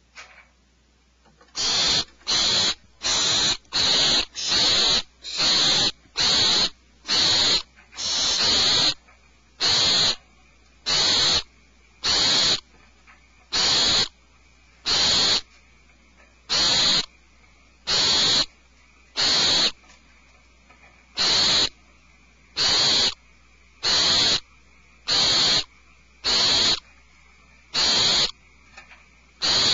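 Barn owls giving harsh, hissing screech calls over and over, each about half a second long. They come quickly at first, then settle to roughly one call every second and a bit.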